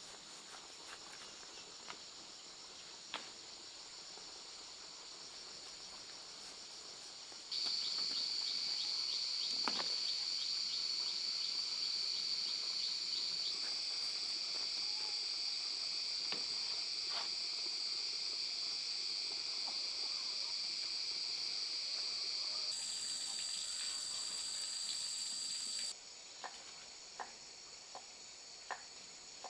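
Insects chirring steadily at a high pitch. A louder, shrill insect buzz starts suddenly about a quarter of the way in and cuts off sharply near the end, with a few light clicks or taps around it.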